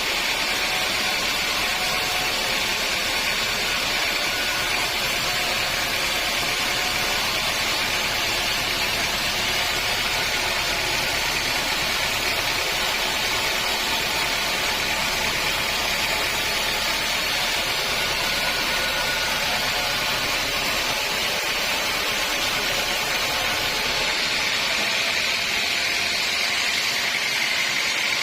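Sawmill machinery running steadily with an even, unbroken mechanical noise.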